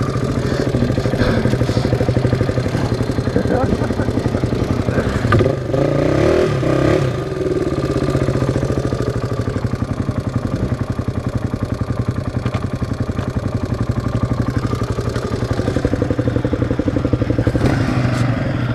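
Single-cylinder four-stroke off-road engine running steadily, with a brief rise and fall in pitch about six seconds in.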